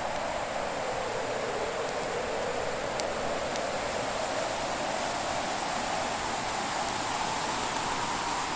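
Fireplace ambience: a steady rushing hiss whose pitch slowly sinks and rises again, with a few faint crackles from the fire, the clearest about three seconds in.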